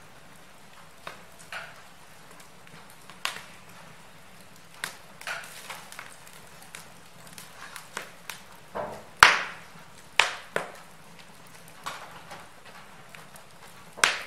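Wood fire crackling in a fireplace: irregular sharp pops and snaps over a low steady hiss, with a few louder pops about nine and ten seconds in and again near the end.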